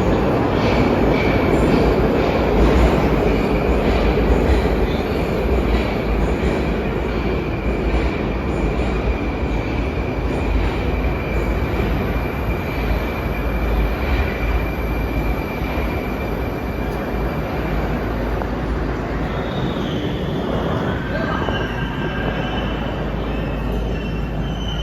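Moscow Metro 81-717/714-type train running through the station: loud, continuous running noise with a steady high wheel squeal that fades out about eighteen seconds in. Near the end come short rising whines.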